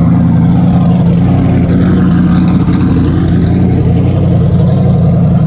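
A car engine running loudly and close by, holding a steady low pitch with no revving.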